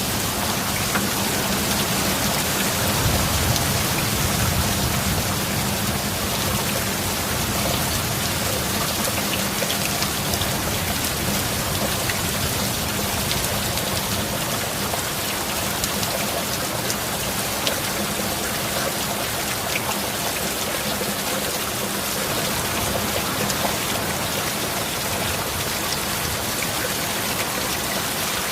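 Steady heavy rain falling in a dense, even hiss, with a low rumble swelling briefly about three seconds in.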